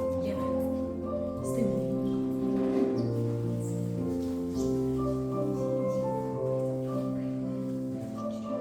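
Classical piano music for ballet class exercises, at an unhurried pace with held notes changing about once a second.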